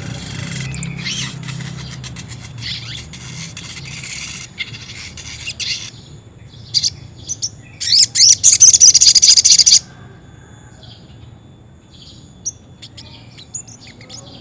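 Sogon songbird singing: scattered high chirps and short phrases, with a loud, fast rolling trill lasting about two seconds past the middle.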